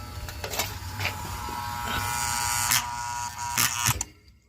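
Distinct buzzing from a stuck relay inside a boiler aquastat: a steady electrical buzz with a few clicks, cutting off abruptly about four seconds in.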